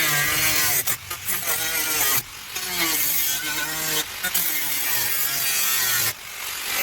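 Power cutting tool, most likely an angle grinder with a cut-off wheel, cutting through a car body's sheet steel. Its motor whine sags and recovers as it loads up in the cut, and it briefly lets off several times.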